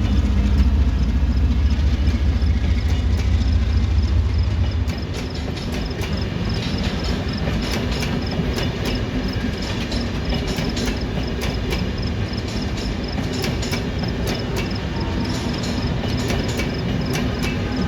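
Train running on the rails: a heavy low rumble for about the first five seconds, then a lighter rumble with a stream of sharp clicks and clacks from the wheels for the rest.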